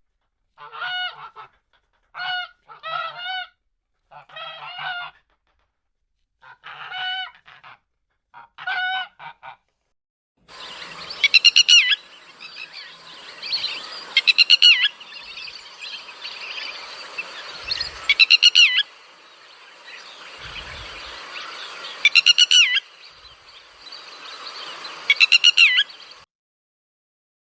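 Geese honking: first six single honks, then a flock calling with five loud, rasping honks standing out every few seconds.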